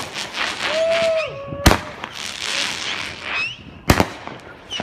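Consumer fireworks going off: fast runs of sharp crackling, with two loud bangs, one about a third of the way in and one near the end.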